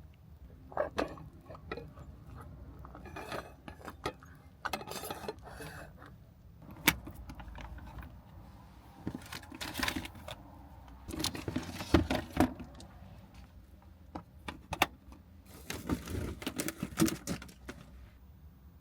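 Irregular clicks, clinks and rustles of small objects being handled, loudest in a few sharp knocks, over a steady low rumble.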